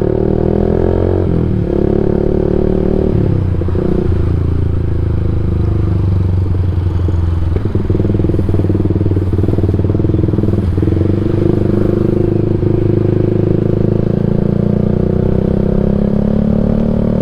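Yamaha MX King 150's single-cylinder four-stroke engine running through a Rob1 TGA aftermarket exhaust while the bike is ridden. The pitch climbs as it accelerates and dips briefly about a second and a half and three seconds in, as at gear changes. It then runs at a fairly steady pitch and climbs again near the end.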